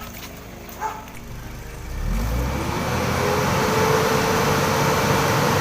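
Hyundai Starex van engine revved up about two seconds in, rising in pitch and then held at high revs, so the exhaust blows carbon deposits out of the muffler.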